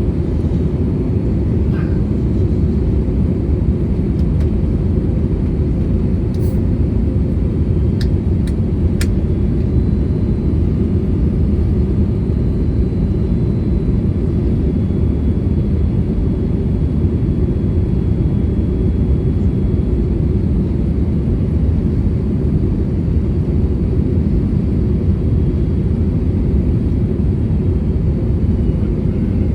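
Steady low rumble of engine and airflow noise inside the cabin of an Airbus A320neo in flight, with a few faint clicks about six to nine seconds in.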